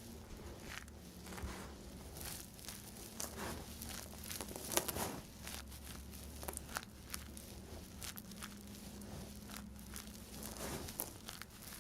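Dry bar soap being cut, giving irregular crackles and crunches, the sharpest a little under five seconds in.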